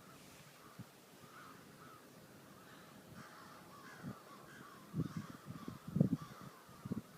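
A large flock of birds calling, many short cries overlapping without a break. From about five seconds in, low thumps come over the calls.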